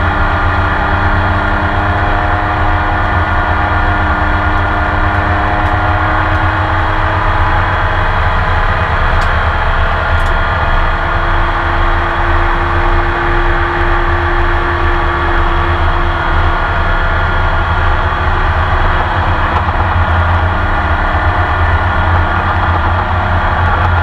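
Porsche 911 race car's flat-six engine running at fairly steady revs, heard from onboard inside the cockpit, with a heavy low rumble under it and no sharp revving or gear changes.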